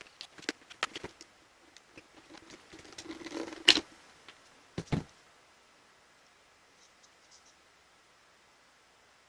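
Small clicks and light knocks of handling a Makita cordless impact driver and its parts on a workbench, with one sharp click about three and a half seconds in and two knocks about five seconds in.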